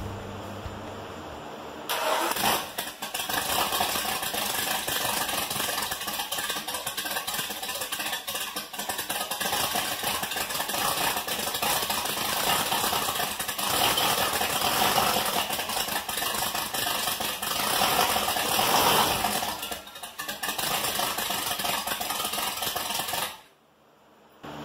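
Built Ford 351 Windsor V8 starting for the first time and running on open headers with no turbo fitted. It catches and runs loudly about two seconds in, swells louder a couple of times, and cuts off abruptly shortly before the end.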